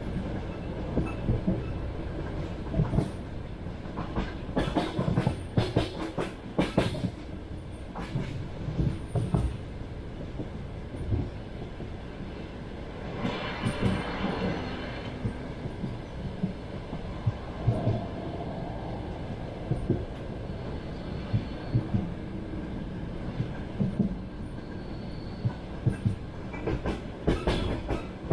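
Passenger train running on the track, heard from inside the carriage: a steady low rumble with the wheels knocking over rail joints in repeated clusters of clicks. About halfway through there is a brief rattling hiss.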